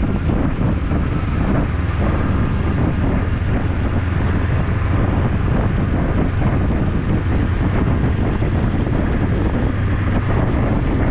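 Wind rushing over the microphone of a motorcycle-mounted action camera, with the motorcycle's engine running steadily underneath at riding speed.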